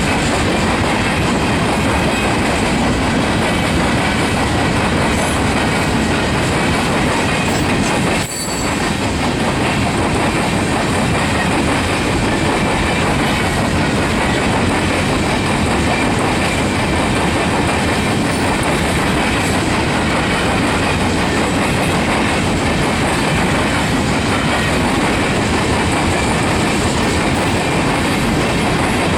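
Freight cars of a Union Pacific rock train rolling steadily past, their wheels clattering over the diamond crossing, with a brief dip in the noise about eight seconds in.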